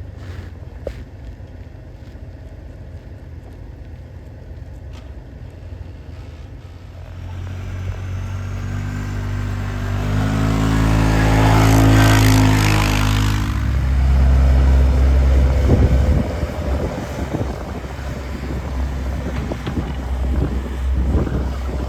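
Heavy truck engine approaching and passing close by, building from a low rumble to its loudest about halfway through with a rushing noise over it. A deep, low engine rumble then carries on.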